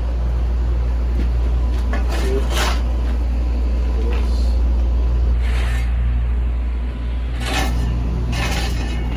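Hand scraper strokes rasping across a roof surface, in several short strokes a few seconds apart, over a steady low machine hum.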